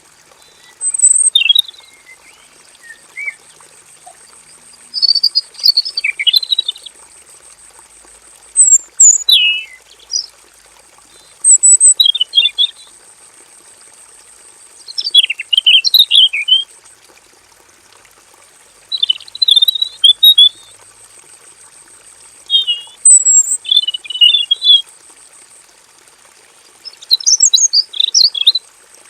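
A male red-billed leiothrix (Pekin robin) singing loudly in short, fast, warbled phrases of about a second each, about a dozen of them, with pauses of one to a few seconds between.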